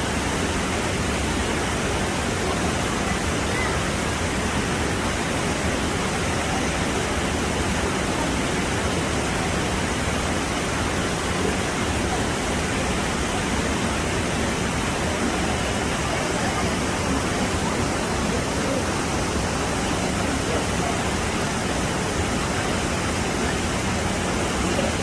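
Mountain valley stream rushing over rocks: a steady, unbroken rush of flowing water.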